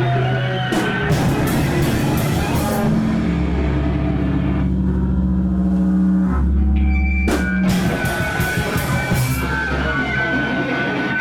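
A live band playing loud rock: a drum kit with cymbal crashes over sustained low bass notes and guitar. The drums drop out for a couple of seconds in the middle and come back in with a crash about seven seconds in.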